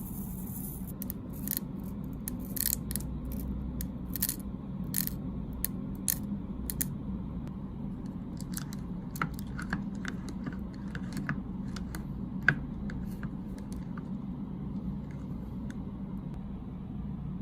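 Snack packaging being handled: scattered sharp crinkles and clicks, densest in the first several seconds, with one louder click past the middle, over a steady low hum.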